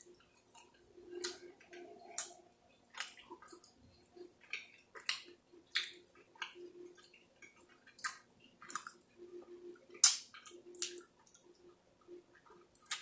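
Close-up eating sounds: chewing and lip-smacking on saucy chicken wings, a run of irregular wet clicks and smacks.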